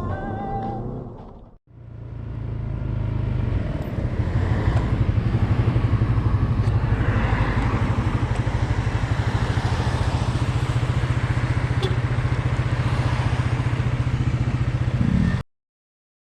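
A motor vehicle running steadily with a fast, even pulsing throb, after a brief bit of music; it cuts off suddenly near the end.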